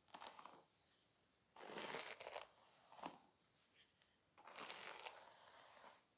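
Faint rustling, crackling strokes of hair being played with close to the microphone: a handful of separate passes, each under a second long, with quiet between them.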